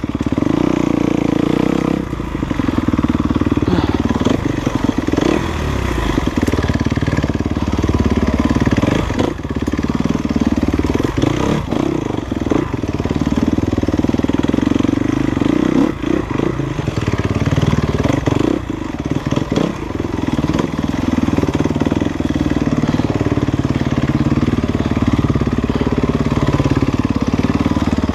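Enduro dirt bike engine running steadily under way, with its pitch shifting a little as the throttle changes and occasional knocks and clatter over the ground.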